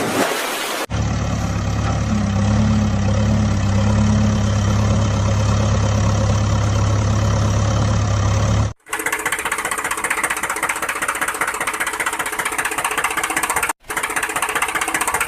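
Engine running, in edited segments that change abruptly: first a steady low hum, then, about nine seconds in, a faster clattering engine sound, with a brief cut near the end.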